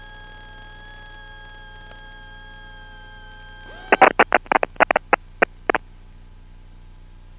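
Aircraft radio crackling with about ten quick, loud static bursts over two seconds, like a microphone key being clicked repeatedly on the common traffic frequency. Under it runs the steady hum and whine of the Cessna 172S cabin intercom.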